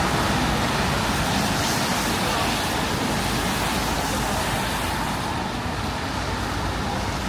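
Steady street ambience: traffic noise with faint voices of passers-by.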